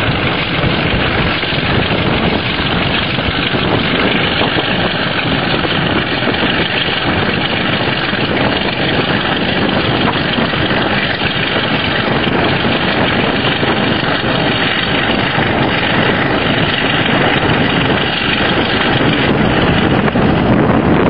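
A British Rail Class 33 diesel locomotive's Sulzer eight-cylinder engine working hard under power, a loud steady thrash that grows a little louder near the end.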